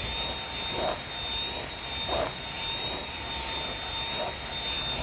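Dyson V7 cordless stick vacuum running steadily, its motor giving a high, even whine over a rush of airflow.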